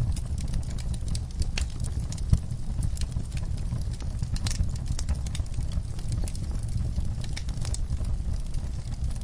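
Wood-burning fire crackling: scattered sharp snaps and pops over a low, steady rumble of the flames, with one louder pop a little over two seconds in.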